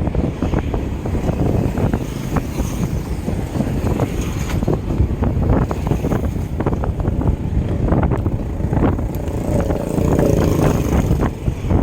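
Wind rushing over the microphone of a camera on a moving bicycle: a steady low rumble with many small knocks and rattles.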